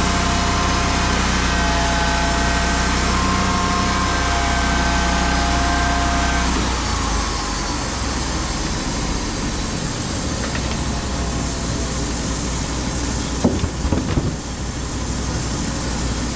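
Engine-driven machinery running steadily with a whine for the first several seconds, then changing to a rougher, noisier sound about seven seconds in. A few sharp knocks come near the end.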